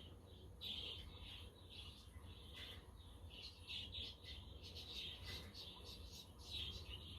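Budgerigars chirping and chattering in many quick, short, overlapping calls, over a steady low rumble of wind.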